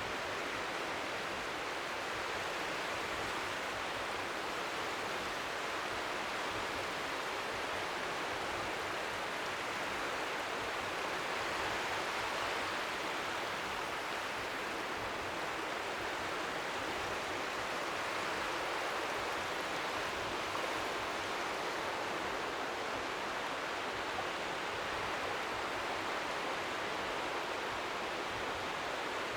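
Strong sea wind making a steady, white-noise-like hiss, with faint waves lapping at the shore underneath. It swells slightly around the middle.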